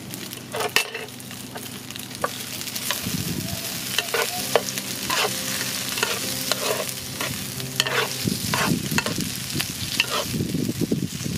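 Sliced sausages frying with garlic and chilli in hot oil, sizzling steadily, while a metal spatula stirs them, scraping and tapping the speckled enamel pan in repeated sharp strokes from about a second in.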